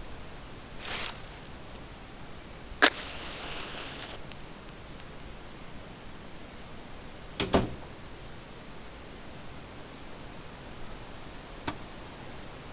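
Steady rain hiss with occasional sharp pops and cracks from a wood fire crackling in a fireplace: one loud crack about three seconds in, a double crack midway and a single crack near the end.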